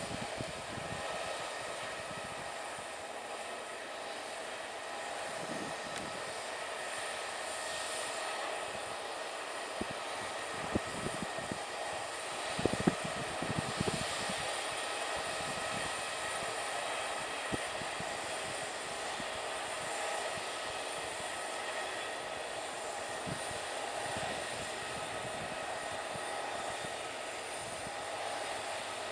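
Jet aircraft engines running steadily: an even rush with a high whine made of several steady tones. Scattered low thumps come and go, most of them around the middle.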